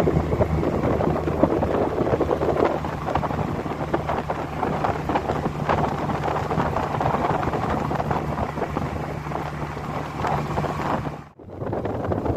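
A steady low engine hum under a rushing of wind on the microphone, briefly cut off near the end.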